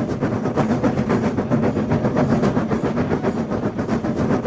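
Sound effect of a train running on rails: a steady rolling noise with a fast clickety-clack rattle.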